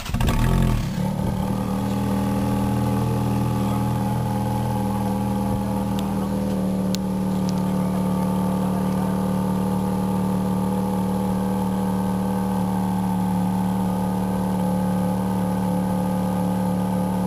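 Ferrari F430 Spider's 4.3-litre V8 flaring loudly as it catches just after start-up, then settling into a steady idle heard at the twin exhaust tips.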